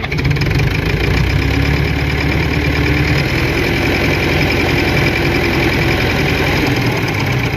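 Fordson Super Major tractor's four-cylinder diesel engine running steadily; its low rumble is heavier for the first three seconds, then eases a little.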